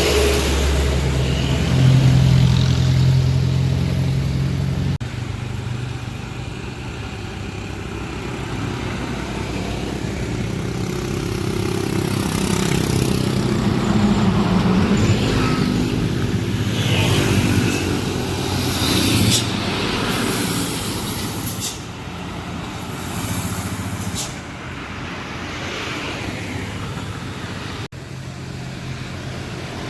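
Heavily loaded diesel trucks climbing a steep hill, their engines labouring under load, with other road traffic passing. The sound changes abruptly about five seconds in and again near the end, with a few short hisses around the middle.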